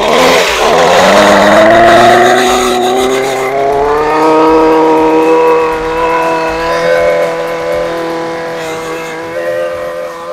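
Husqvarna 128LD string trimmer's small two-stroke engine running at high revs, its pitch rising over the first few seconds and then holding steady, running on its newly replaced fuel lines.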